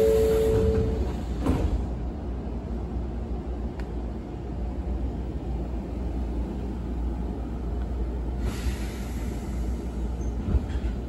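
Inside a standing Izuhakone Railway 7000 series electric train: a two-tone chime ends in the first second, then a single thud about a second and a half in, typical of the doors shutting. A steady low rumble runs under it, and a hiss of air comes in about eight seconds in.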